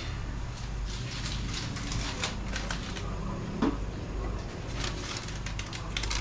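Scattered light clicks and taps, with one louder knock about three and a half seconds in, over a steady low machine hum, while an end mill is touched off on the top of a stainless steel workpiece on a CNC router.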